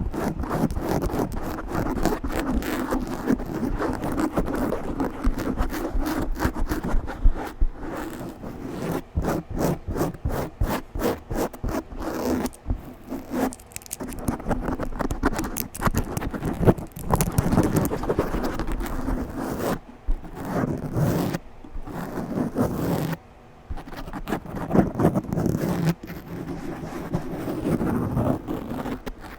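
Aggressive scratching directly on a microphone: fast, loud rasping strokes one after another, with a few short breaks in the second half.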